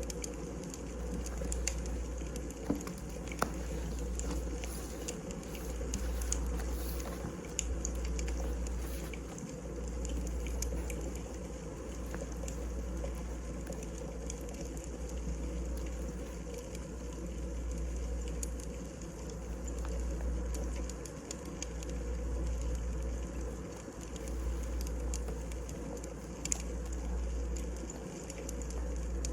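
Wood fire burning in a fireplace: a steady crackle with scattered sharp pops of the burning logs over a low rumble that swells and fades every few seconds.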